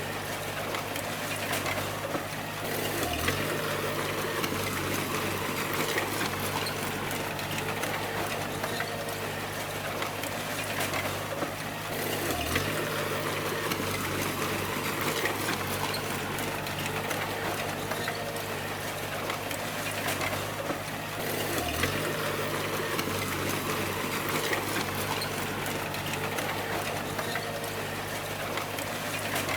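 Bulldozer diesel engine running steadily under work, with a busy mechanical clatter over it. Three times, about nine seconds apart, the engine's pitch dips briefly and recovers.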